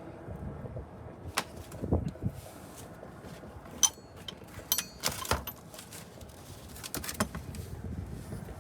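A series of scattered sharp clicks and knocks over a low steady background, as tools and parts are handled under a truck during an oil change.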